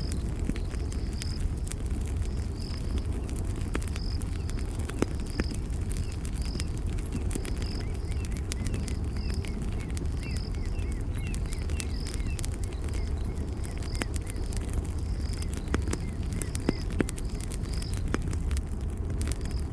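Campfire crackling and popping over a low rumble of burning wood, with a short high chirp repeating steadily in the background and a few softer chirps about midway.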